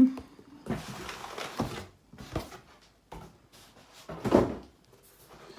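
Parcel packaging being handled and opened: rustling and scraping with several irregular knocks and thumps, the loudest about four and a half seconds in.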